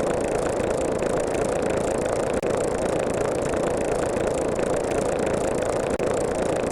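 A steady, even droning noise that cuts out for an instant about six seconds in.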